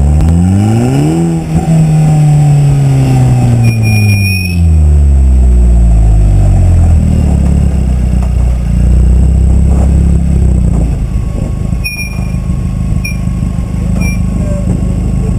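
KTM X-BOW GT's turbocharged 2.0-litre inline-four engine revving up briefly, then falling in pitch over a few seconds as it slows, then running low and steady.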